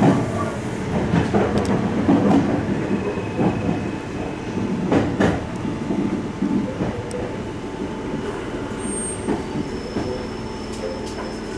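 Meitetsu electric train rolling along a station platform, heard from inside the front car: running rumble with wheels clicking over rail joints. It grows quieter as the train slows almost to a stop.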